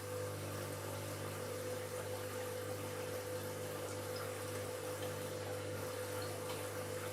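Washing machine drawing in water: a steady electrical hum with water rushing into the drum. The hum starts right at the beginning and holds at an even level.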